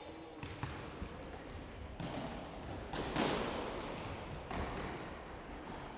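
Futsal ball being kicked and bouncing on a sports-hall floor: a few scattered dull thumps, the loudest about three seconds in.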